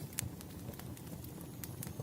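Wood fire crackling: irregular sharp pops and snaps, a few loud ones, over a low steady rumble.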